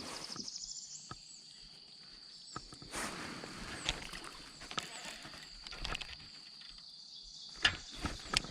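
Scattered knocks and clicks of gear being handled in a kayak, over a steady high whine. The loudest knocks come near the end.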